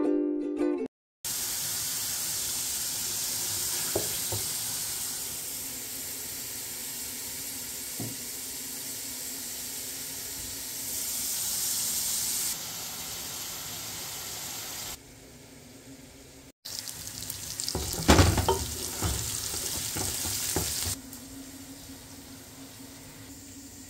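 Sliced onions and tomato masala sizzling as they fry in a large pot, stirred with a wooden spoon that knocks and scrapes against the pot a few times, with a burst of clattering about two thirds through. Near the end the sound changes to a lower, steady bubbling of a pan of water at a rolling boil. A brief bit of ukulele intro music plays at the very start.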